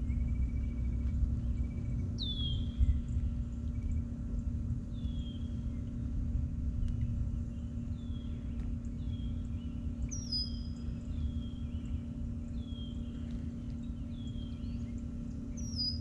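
Red-winged blackbird calling: a series of short down-slurred whistles, about one a second, starting about two seconds in, over a low rumble of wind.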